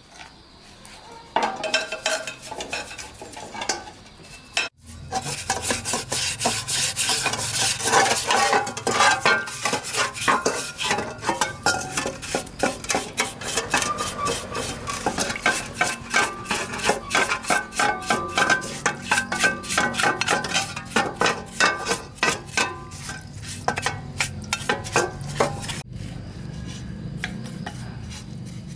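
Metal parts scraping and clinking rapidly and without a break for about twenty seconds, over a low steady hum; it stops shortly before the end.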